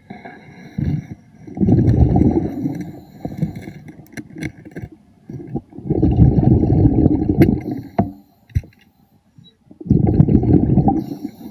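A scuba diver's exhaled bubbles rumbling loudly past the microphone underwater: three exhalations, about four seconds apart, with scattered faint clicks between them.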